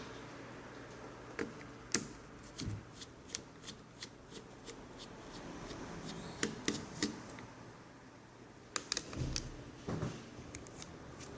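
Plastic parts and small components of a Toshiba NB550D netbook being handled during disassembly: irregular sharp clicks and taps, with a quick cluster of clicks and a dull knock near the end.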